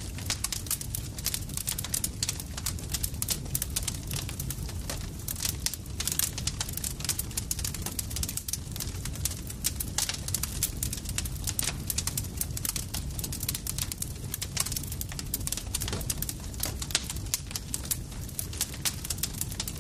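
Campfire crackling: a dense, irregular run of sharp pops and snaps over a steady low rumble of burning wood.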